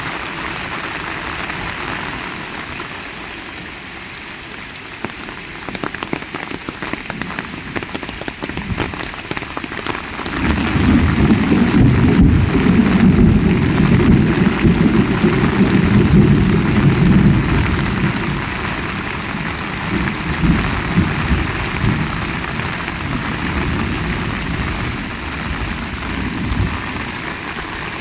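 Heavy rain falling steadily, with a long low rumble of thunder rolling in about ten seconds in, lasting some eight seconds before it fades back under the rain.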